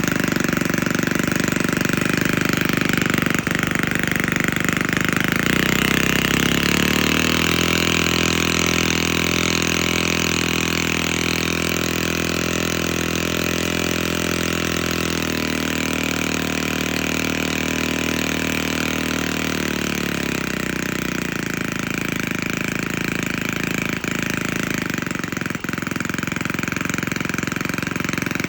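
OKMO 185 3.6cc overhead-valve single-cylinder gasoline model engine running steadily. About six seconds in it settles to a slower, even pitch, then picks back up about twenty seconds in.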